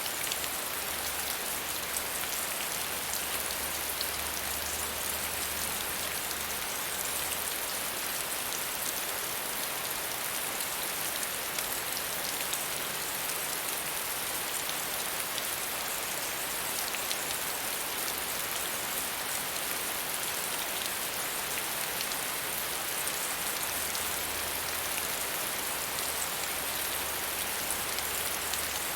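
Steady rain falling, a dense even patter of drops on a surface, with a faint low hum in the background at times.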